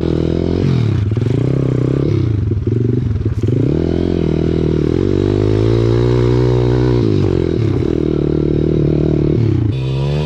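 Single-cylinder pit bike engine running while being ridden, its pitch dropping and climbing again several times as the throttle is worked.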